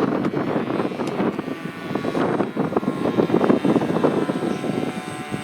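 Electric motor and propeller of an RC model airplane whining steadily in flight, under rough, fluctuating noise.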